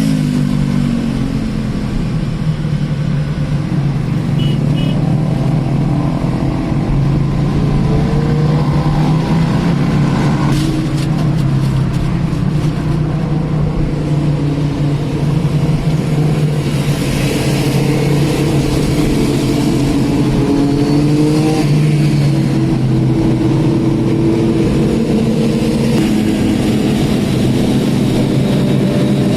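A road vehicle's engine runs continuously, its pitch slowly rising and falling as it speeds up and eases off. A short run of sharp clicks comes about ten to thirteen seconds in.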